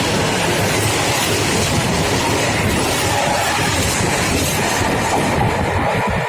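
Freight train passing, with a loud, steady noise of wheels running on the rails.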